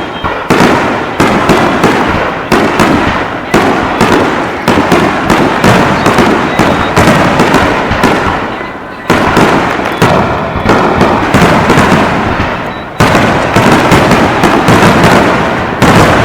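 Fireworks display in a rapid barrage: many shell bursts in quick succession, several sharp bangs a second, with short lulls about nine and thirteen seconds in before fresh volleys.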